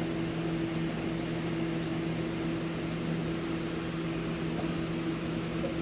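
Steady machine hum: a low tone and the tone an octave above it, holding constant over a background of noise.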